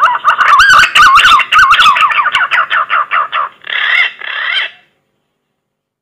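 Punai (green pigeon) lure call played loud: a fast run of wavering whistled notes that rise and fall, then two longer, hoarser notes. It cuts off abruptly a little before five seconds in.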